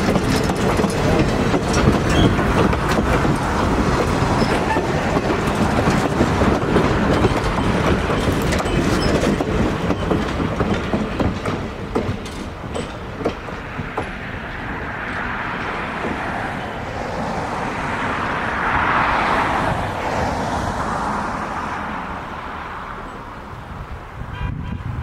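Vintage passenger cars of an excursion train rolling past close by, their wheels clacking over the rail joints in a rapid, uneven rhythm. After about twelve seconds the clatter eases into a quieter rolling rumble that fades as the last car moves away.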